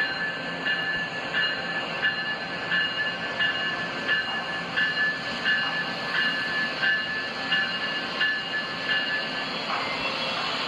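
A locomotive bell ringing steadily, about three strikes every two seconds, over the idling train. It stops shortly before the end.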